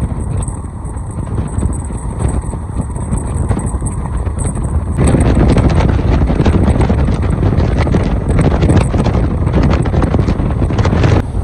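Passenger train running at speed, heard from an open coach doorway: wind buffets the microphone over the rumble of the wheels. About halfway through it grows louder, with fast clatter, then drops suddenly near the end.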